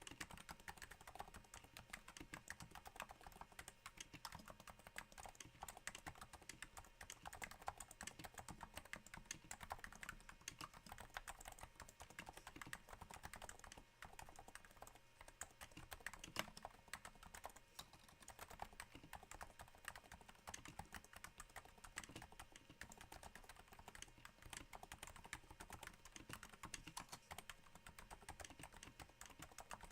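Faint, steady typing on a Cooler Master NovaTouch keyboard, its Topre switches damped by Hypersphere silencing rings, giving a continuous patter of soft keystrokes that sounds a little like rain.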